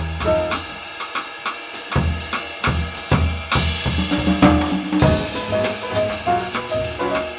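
Live jazz combo playing, with the drum kit to the fore (snare and cymbal strokes) over piano and bass.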